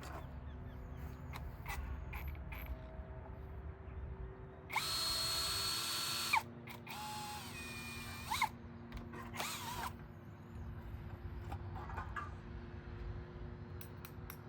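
Handheld electric power tool switched on in three short bursts, each spinning up to a steady high whine and winding down again.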